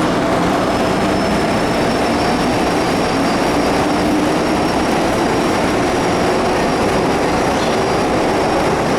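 MTR Metro-Cammell M-Train electric multiple unit running through a tunnel, heard from inside the carriage: a steady, loud rumble of wheels and running gear with a faint high whine held through most of it.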